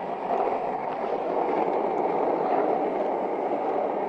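Steady rushing noise of skis sliding fast over snow.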